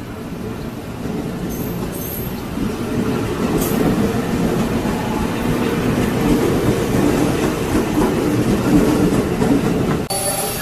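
Electric commuter train (multiple unit) running past along the platform, a dense rumble of wheels on rails and traction gear that grows louder over the first few seconds. The sound breaks off abruptly near the end.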